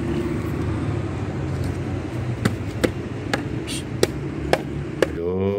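Steady low hum of a running car engine, with a string of sharp clicks about two a second in the second half.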